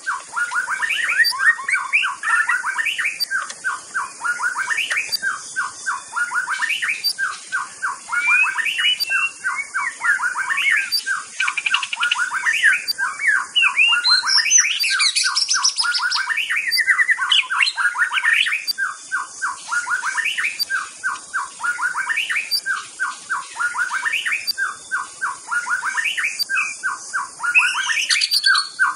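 White-rumped shama (murai batu) singing continuously and energetically: fast runs of short repeated notes, with higher whistled phrases around the middle, over a steady high hiss.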